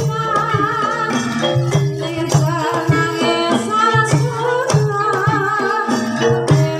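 Live ebeg accompaniment music: a Javanese gamelan-style ensemble of tuned percussion and drums, with a singer's voice wavering over it.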